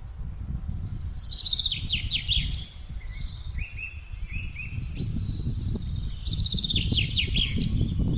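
Wind blowing as a steady, gusty low rumble, while a songbird sings two similar phrases of fast trilled notes about five seconds apart, with a few short chirps between them.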